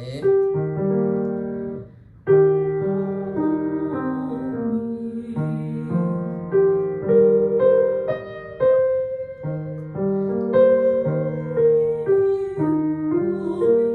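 Piano playing a vocal warm-up exercise: short groups of notes stepping up and down, with a brief break about two seconds in.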